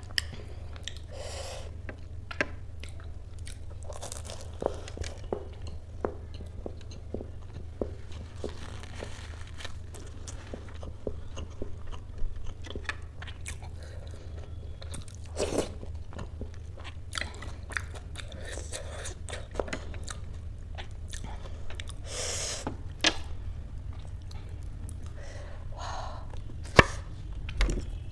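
Close-miked chewing and crunching of a crisp, deep-fried kachori: bites and wet mouth sounds with scattered sharp crunches, over a steady low hum. One sharp crack near the end stands out as the loudest sound.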